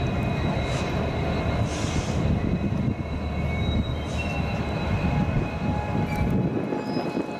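Union Pacific diesel locomotives in a rail yard: a steady low engine and rail rumble, with thin high squealing tones from steel wheels on the rails.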